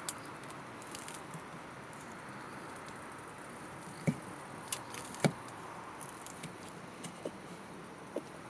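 Campfire crackling: a steady hiss of burning wood with scattered sharp pops, the loudest two about four and five seconds in.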